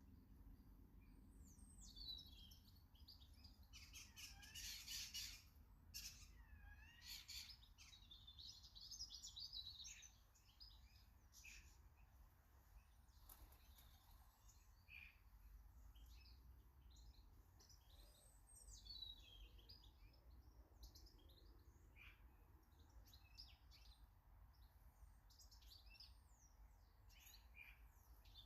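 Faint garden birdsong: several small birds chirping and trilling in overlapping short calls, busiest in the first third.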